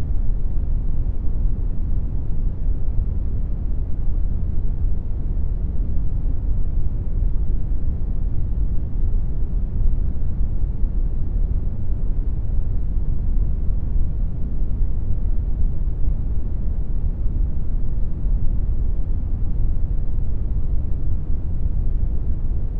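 Synthetic brown noise: a steady, even rumbling hiss with most of its energy in the low end, fading off toward the treble, unchanging throughout.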